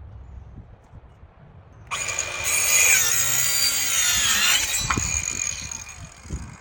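Ryobi 18V ONE+ 4-1/2-inch cordless circular saw starting up about two seconds in and cutting through wood. Its high whine drops in pitch mid-cut as the blade slows under load, then dies away near the end.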